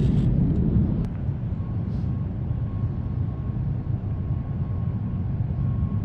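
Wind buffeting the microphone, a steady low rumble, with a faint thin whine coming and going from about a second and a half in.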